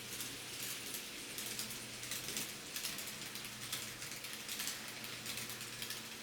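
TOMIX N scale model 207 series electric train running on layout track: a steady hiss with quick, irregular clicking and a faint motor hum.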